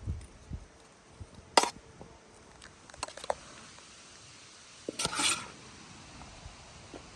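A spoon stirring chopped vegetables and meat in a bowl, with a few sharp clinks against the bowl and a short scraping rustle about five seconds in.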